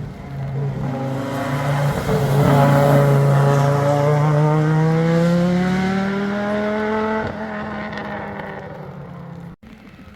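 A rally car's engine pulling hard under load as the car passes close, its pitch climbing steadily for several seconds before fading away. The sound cuts off abruptly near the end.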